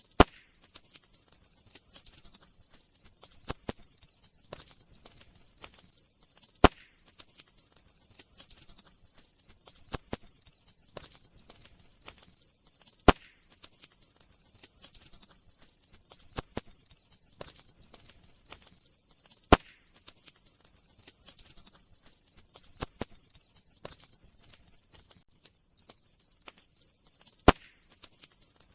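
Wood fire crackling: scattered small snaps and pops over a faint steady hiss, with a handful of louder sharp pops several seconds apart.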